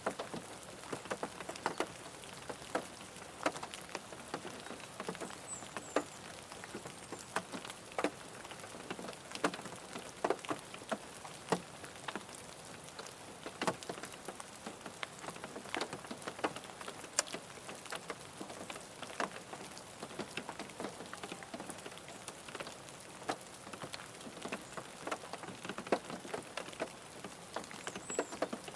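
Rain falling on a car: a steady hiss of rain with many separate drops ticking sharply on the body.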